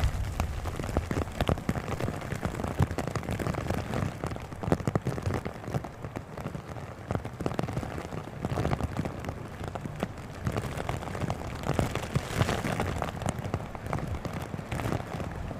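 Rain pattering in many small ticks over a steady hiss, with gusty wind making it swell and ease every few seconds.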